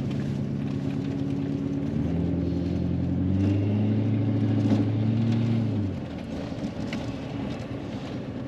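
Tractor engine under throttle, its pitch stepping up twice, about two and three seconds in. It holds there, then eases back down about six seconds in.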